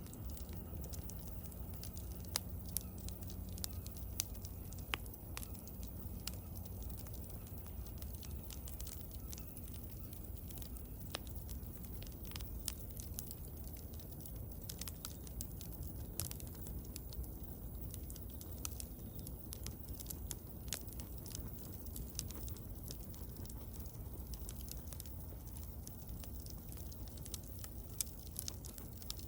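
Wood bonfire crackling, with scattered sharp pops at irregular intervals over a steady low rumble.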